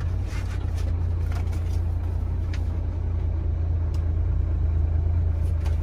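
Truck engine running with a steady low drone, with a few faint light rattles over it.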